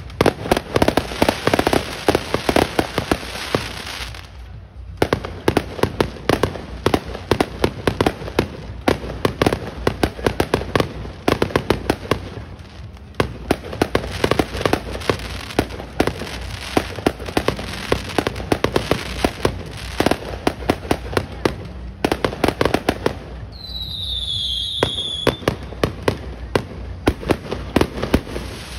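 Aerial fireworks going off in a dense, continuous crackle of bangs and pops. There is a short lull about four seconds in, and a high whistle falling in pitch about twenty-four seconds in.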